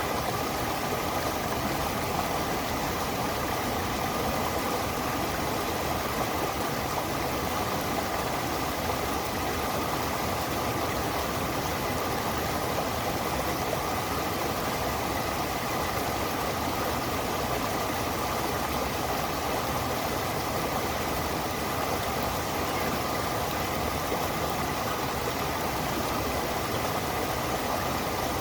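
Stream water rushing steadily and unbroken, with a faint steady high tone running through it.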